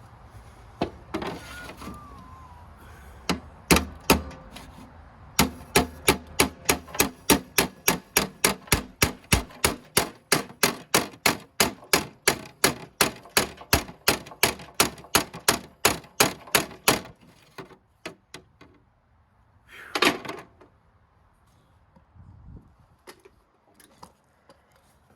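Rapid light hammer taps on metal, about three or four a second for some twelve seconds after a few single knocks, as a part is beaten flat.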